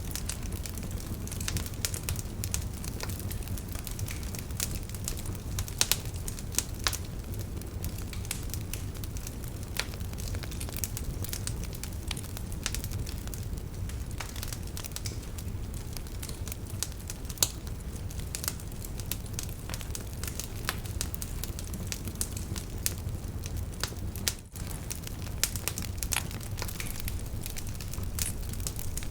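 Fire burning in a fireplace, crackling steadily with many irregular sharp pops and snaps over a low, even rumble.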